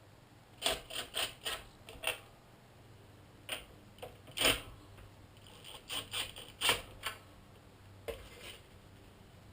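A series of light, sharp clicks and knocks, about a dozen, coming irregularly in small clusters with pauses between them.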